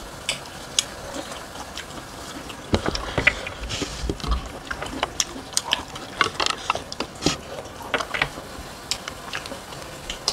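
Close-up eating sounds of people chewing food eaten by hand: irregular wet clicks and smacks of mouths and lips, thickest through the middle of the stretch.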